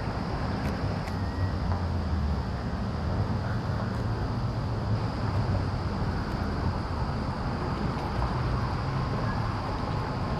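Steady low outdoor background rumble, with a faint steady high-pitched hum above it.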